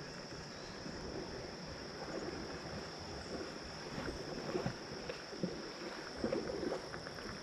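Kayak drifting on a river: water sloshing against the hull with small irregular knocks and rustles, over a steady high-pitched insect drone.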